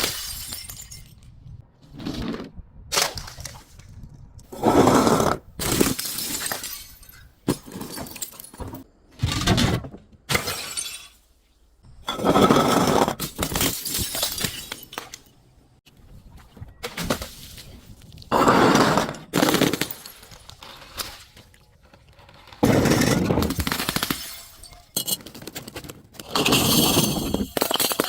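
Glass bottles smashing and shattering one after another, a long series of separate crashes every second or two, each fading into tinkling shards.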